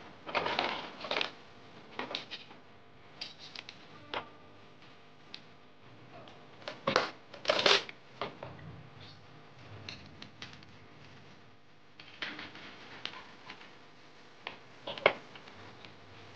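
Plastic drinking-water bottle being handled and worked, giving irregular crinkles and clicks with short pauses between them; the loudest bursts come about halfway through and again near the end.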